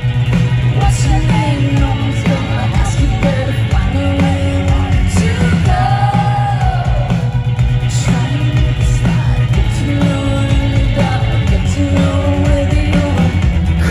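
Live rock band playing loud with a singer, recorded from the festival crowd, the low end heavy and dense.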